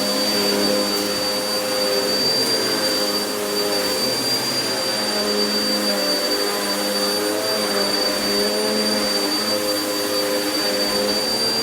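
Vacuum cleaner running steadily on carpet: a continuous motor hum that wavers slightly in pitch, with a thin high whine and airflow hiss over it.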